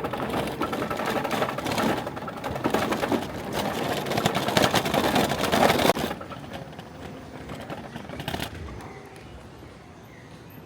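Car running on the road, heard with a fast mechanical clatter and rumble that drops sharply to a quieter hum about six seconds in.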